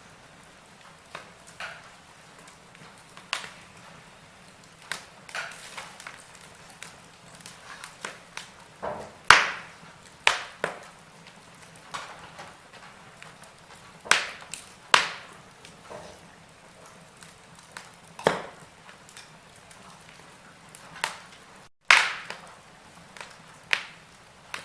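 Wood fire crackling in a fireplace: irregular sharp pops and snaps over a faint steady hiss, a few loud cracks standing out, the loudest about nine seconds in and again near the end.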